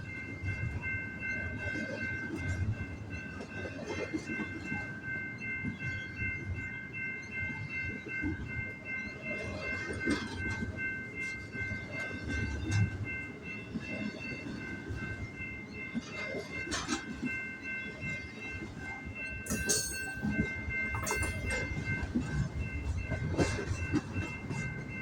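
BNSF double-stack intermodal freight train rolling past, its wheels clattering and clicking over the rail joints, with a steady high-pitched ringing tone throughout.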